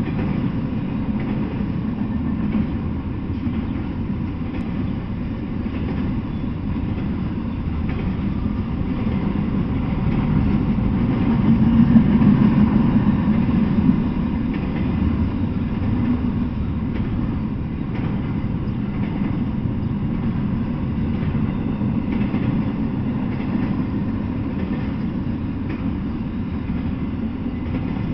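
Double-stack intermodal freight train rolling past: a steady rumble of freight car wheels on the rails, with faint clicks. The rumble swells a little about halfway through.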